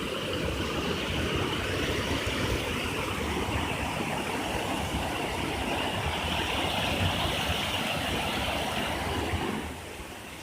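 Steady rushing of flowing water from a waterfall or stream, dropping suddenly in level near the end.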